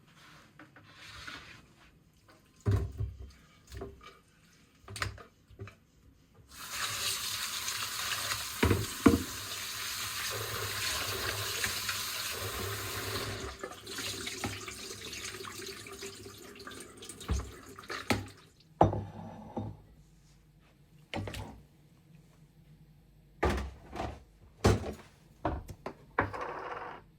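Water running from a tap into a sink for about seven seconds, starting a few seconds in. Scattered knocks and clunks of things being handled come before and after it.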